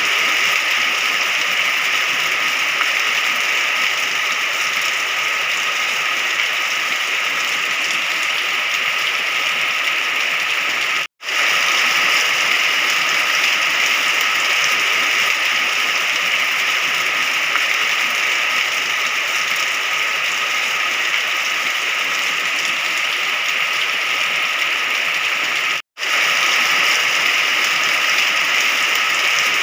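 Steady, dense rain, a continuous hiss of falling drops. It cuts out for an instant twice, about eleven seconds in and near the end.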